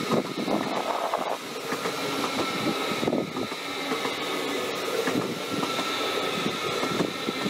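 A train running close past, its wheels clattering over the rails with a steady thin high whine.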